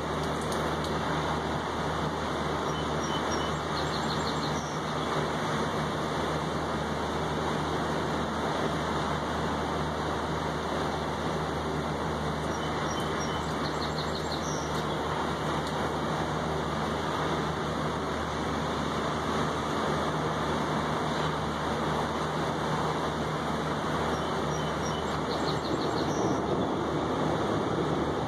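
Steady rain falling on a balcony railing and table, with ocean surf behind it, an even wash of noise. A low steady hum runs underneath.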